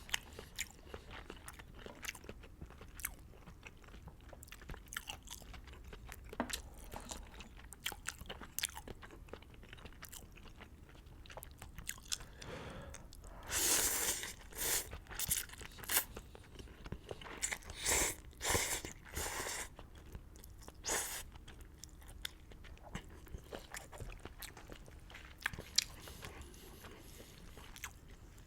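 Close-miked eating of beef noodles: steady chewing with many sharp wet mouth clicks. About halfway through comes a run of loud slurps several seconds long as noodles are sucked up, then the chewing and clicks go on.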